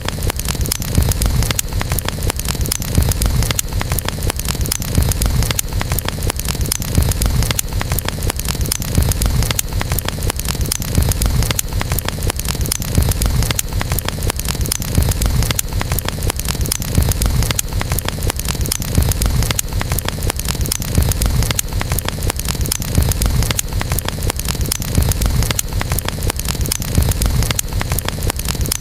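Wood campfire burning: continuous dense crackling and snapping over a steady low rumble.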